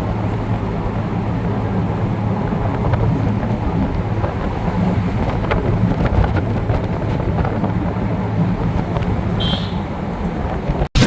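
Steady rumble of wind and road noise while riding in the open back of a moving truck. A brief high tone sounds about nine and a half seconds in.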